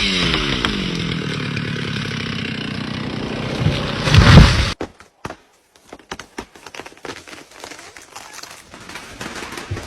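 Chainsaw engine running, its pitch dropping at first and then holding steady, with a brief louder surge just after four seconds. The engine sound cuts off abruptly about halfway through, followed by quieter scattered sharp cracks and clicks.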